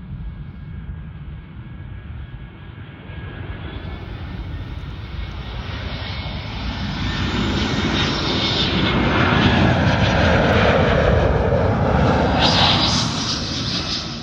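Airbus A320 jet airliner on final approach passing low overhead: the engine noise swells over about eight seconds to its loudest, the pitch sweeping down as it goes by, then starts to fade near the end.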